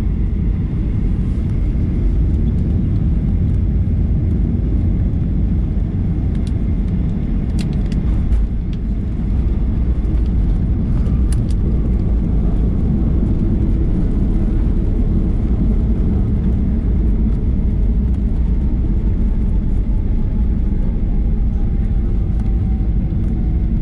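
Cabin noise inside a Boeing 737-800: the steady rumble of airflow and its CFM56 engines. A faint tone slowly falls in pitch through the second half, and a few sharp clicks come about a third of the way in.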